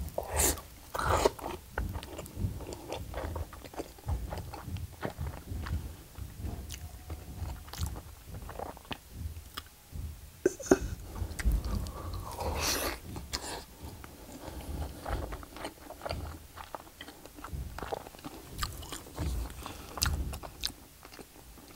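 A person biting into and chewing a whole pan-fried block of Spam, with a bite near the start and a steady run of small crackling mouth sounds as he chews.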